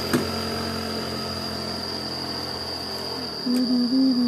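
Motorcycle engine idling steadily, with a sharp click just after the start; the engine sound stops about three seconds in and a person's voice follows, a held, stepped hum.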